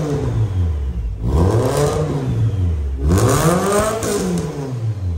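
Mitsubishi Lancer Evolution's turbocharged four-cylinder engine being free-revved while parked. A rev dies away in the first second, then the engine is blipped twice more, each rev rising and falling back over about a second and a half.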